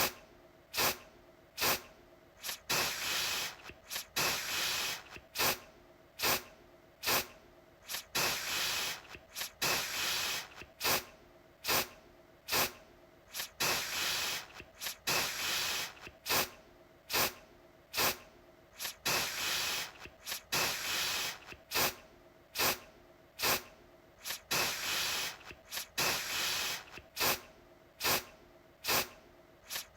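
Deodorant aerosol can sprayed in short repeated spritzes of hiss, about one or two a second, some brief and some held for about half a second.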